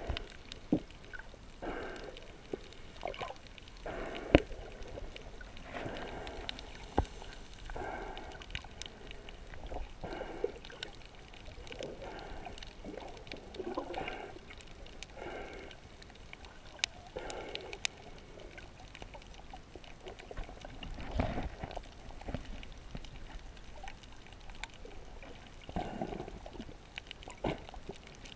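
Muffled water sloshing and gurgling, picked up by a GoPro camera inside its waterproof housing in shallow sea water. Irregular swells come and go, with scattered sharp clicks.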